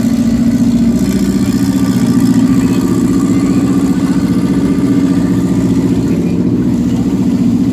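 Renault 5 Turbo rally car's engine idling steadily, close up.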